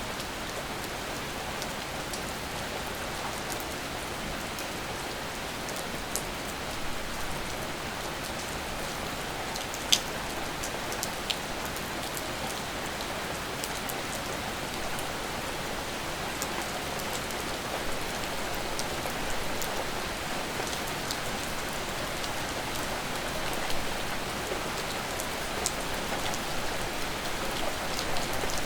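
Steady rain falling, an even hiss with scattered single drops ticking on a surface; one sharper drop stands out about ten seconds in.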